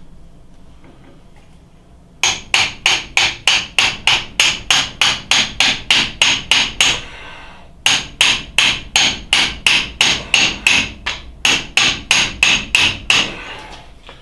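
Hammer tapping on the under-drive shaft of a South Bend Heavy 10 lathe to drive it out, with sharp ringing strikes at about three to four a second. The strikes come in three runs with short pauses between them, starting about two seconds in.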